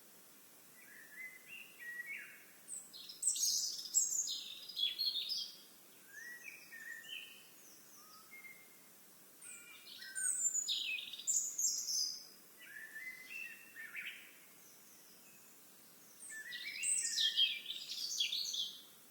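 Songbirds singing: long, rapid, jumbled phrases of high chirps and trills that come in three bursts, loudest a few seconds in, again around the middle, and near the end, over a faint outdoor hiss.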